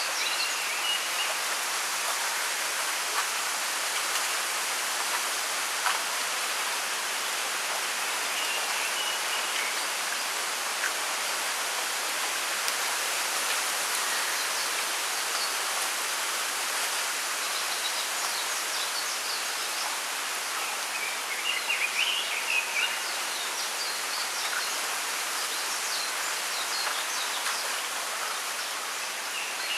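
Bamboo grove ambience: a steady hiss of bamboo leaves rustling in the wind. Small birds chirp in short bouts several times over it, the loudest bout about two-thirds of the way through.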